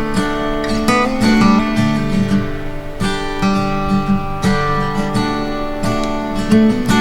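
Background music: acoustic guitar strummed and picked in a steady pattern of chords.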